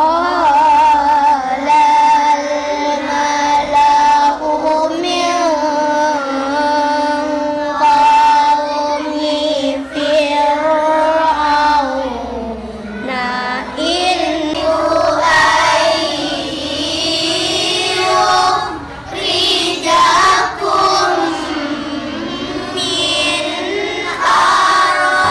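A group of children singing together in unison, with long held notes that bend slowly in pitch.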